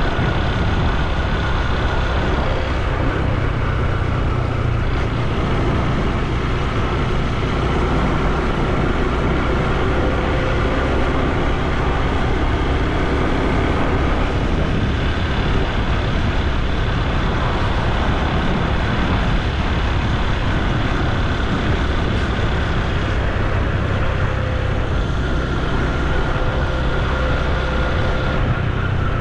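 Honda Super Cub C125's air-cooled 125 cc single-cylinder four-stroke engine and exhaust running at road speed, its pitch drifting a little up and down with the throttle, over a steady rush of wind and road noise.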